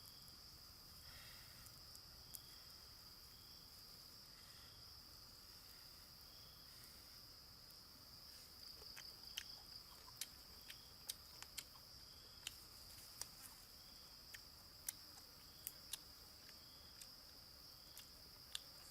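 Faint, steady high-pitched insect trill with a softer chirp repeating roughly once a second. From about halfway through, a scattered series of sharp clicks or taps.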